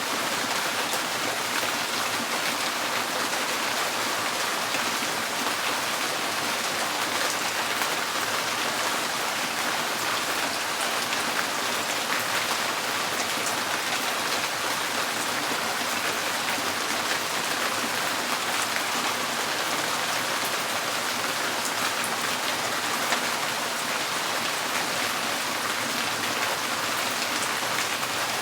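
Steady rain drumming on a tin porch roof, a dense even patter of countless drops.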